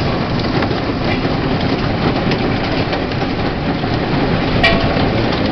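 Steady rushing roar of a severe thunderstorm, wind and heavy rain, with no let-up.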